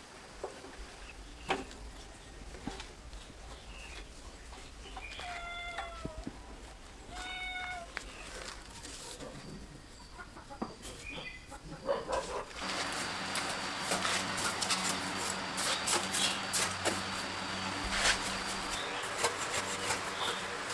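Two short chicken calls, about five and seven seconds in. From a little past halfway, a louder steady noise with many clicks and rattles takes over.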